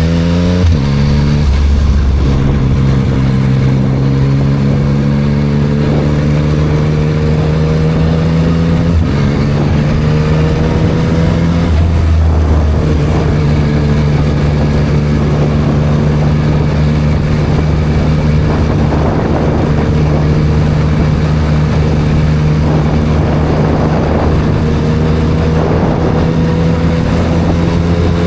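2024 Yamaha MT-09 SP's 890 cc inline-three engine running through a Spark full exhaust while being ridden. The engine note shifts with gear changes and throttle near the start and again about nine and twelve seconds in, then holds a fairly steady cruise with slow rises in pitch, over a constant rush of wind and road noise.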